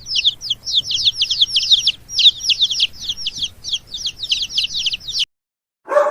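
Bird chirping: a rapid, unbroken run of short high notes, each dropping in pitch, that cuts off suddenly about five seconds in. A dog's bark starts right at the end.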